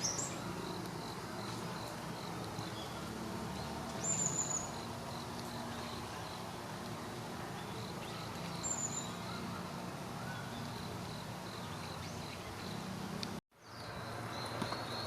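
Outdoor bird ambience: a small bird gives a short, thin, high chirp three times, over a faint regular ticking of about three a second and a low steady hum. The sound cuts out abruptly for a moment near the end.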